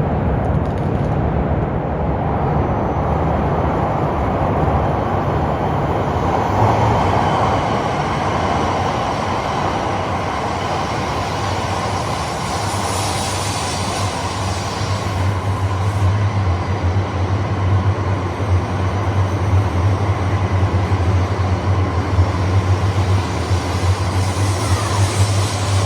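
A coupled E8 and E5 series Shinkansen train running through an underground station without stopping: a continuous, loud noise of wheels and traction motors, its deep rumble growing heavier about halfway through.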